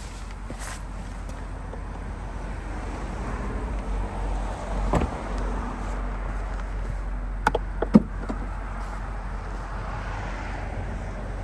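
Car sounds: a steady low rumble with a few sharp clicks, the loudest about eight seconds in.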